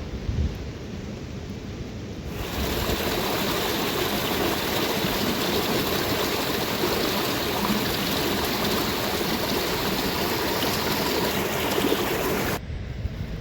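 Steady rushing water, a dense even hiss, that starts suddenly about two seconds in and cuts off suddenly near the end. A quieter low rumble comes before and after it.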